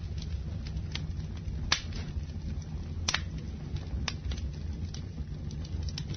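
Campfire burning, a steady low rumble with sharp wood crackles and pops about once a second; the loudest pops come a little under two seconds in and about three seconds in.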